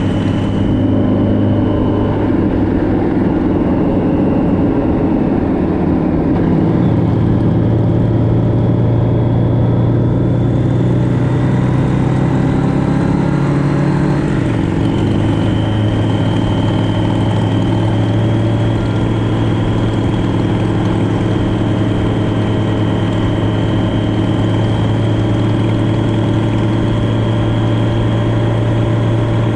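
Motorcycle engine running steadily under way, with road and wind noise; the engine note steps up about a quarter of the way through and shifts again near the middle, as the throttle or gear changes.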